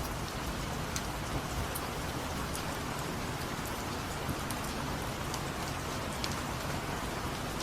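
Steady rain, an even hiss with scattered sharp drop ticks now and then.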